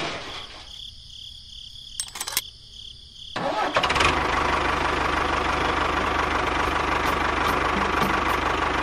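A few clicks, then a motor starts about three and a half seconds in and runs steadily with a fast, even buzz.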